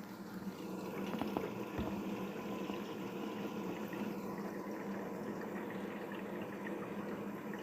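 Daewoo DWD-FT1013 washing machine filling with water early in its hand-wash cycle: a steady rush of water with a constant low hum.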